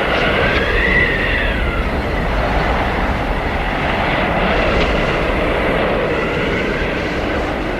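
Blizzard wind: a steady roar of gusting wind with a whistling howl that rises and falls in pitch, strongest in the first two seconds and again near the end.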